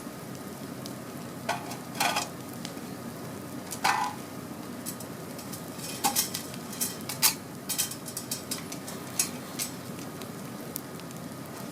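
Campfire crackling: a steady low hiss of burning wood with irregular sharp pops, a few louder snaps about 2, 4 and 7 seconds in.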